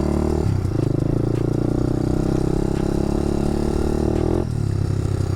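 ATV (four-wheeler) engine running while riding a trail, its note shifting about half a second in and again near the end, with a few light knocks from the machine over rough ground.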